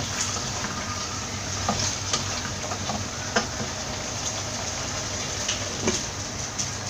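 Spiced chicken pieces sizzling and bubbling in their own juices in a pan, stirred with a wooden spatula, with a few light knocks and scrapes scattered through. The liquid is cooking down as the chicken nears three-quarters done.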